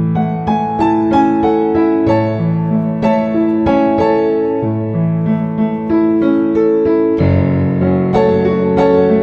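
Background music: a gentle solo piano piece, melody notes over steady chords, with a fuller chord change about seven seconds in.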